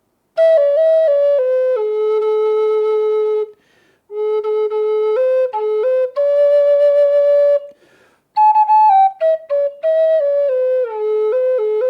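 Native American style flute in the key of A, a small backpacker flute, playing a slow melody in three breath-long phrases with short pauses between them, ending in quick alternating-note ornaments.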